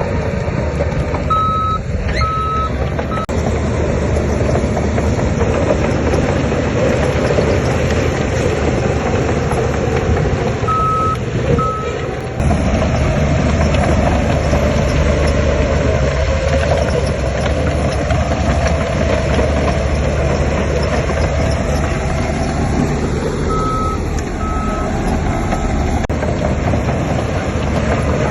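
Heavy earthmoving machinery running steadily under load. A reversing alarm sounds three times in short runs of two or three even beeps: early on, near the middle and near the end.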